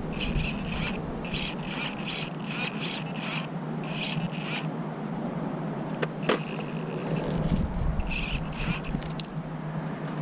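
A bird calling in runs of short, quickly repeated notes, with a pause of a few seconds in the middle, over a steady low hum. Two sharp clicks come about six seconds in.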